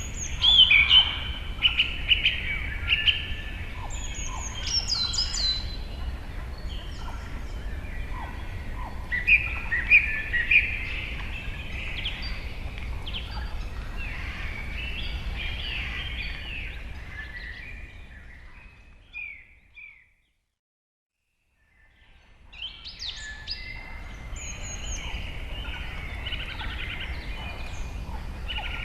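Many birds chirping and calling over one another, with short rising and falling notes, above a steady low rumble of ambience. About two-thirds of the way through, it all fades out to a couple of seconds of silence, then fades back in.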